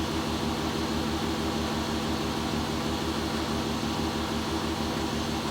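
VW MKIV R32's 3.2-litre VR6 engine idling steadily after a cold start, heard through an APR aftermarket exhaust with an even, fast low exhaust pulse.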